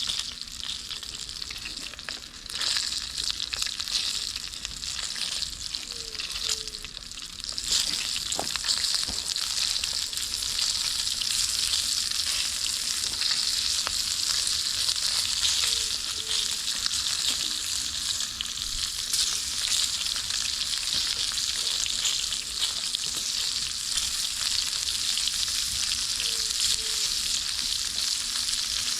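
Food frying in oil in a pan over a campfire: a steady sizzle with small crackles, getting louder about eight seconds in.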